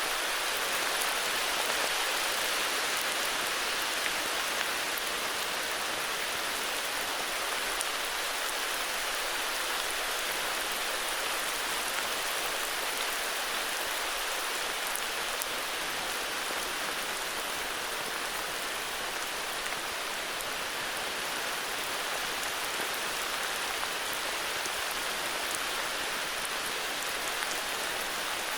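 Steady heavy rain falling, an even hiss with scattered drop patter.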